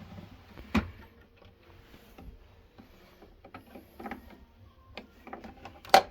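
Clicks and knocks of something being handled: a sharp knock about a second in, scattered lighter clicks, and a louder knock near the end.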